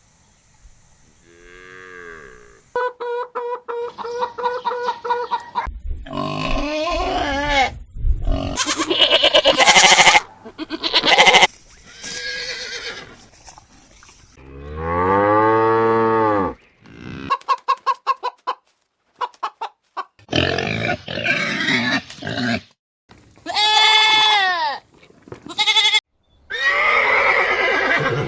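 A string of different farm animal calls, one after another, each a second or two long and cut off abruptly, some rising and falling in pitch, with a short run of quick repeated calls about two-thirds of the way through.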